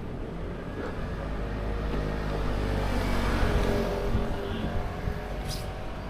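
A car driving past, its engine growing louder to a peak about three and a half seconds in and then fading away.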